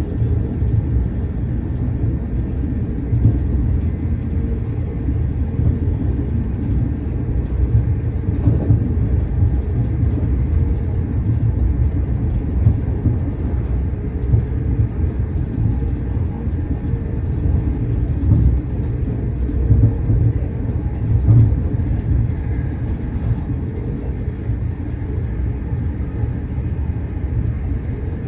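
Steady low rumble of an electric passenger train running at speed, heard from inside the carriage, with a few faint clicks about two-thirds of the way through.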